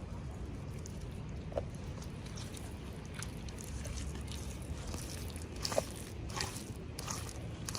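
Hands unpacking small toys: plastic packaging rustling and crinkling, with light clicks and taps that are busiest past the middle, over a steady low hum.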